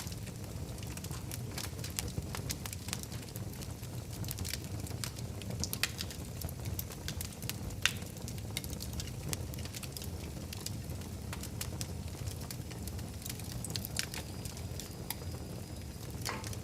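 Wood fire in a fireplace crackling, with irregular sharp pops over a steady low rumble of flame; one pop about eight seconds in stands out louder.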